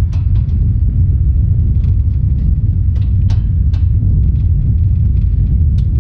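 Wind buffeting the microphone: a loud, steady low rumble, with a few faint small clicks scattered through it.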